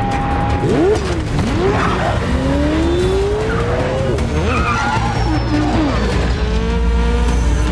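Film car-chase sound mix: vehicle engines revving, their pitch rising and falling several times, with tyres skidding and squealing over a low music score.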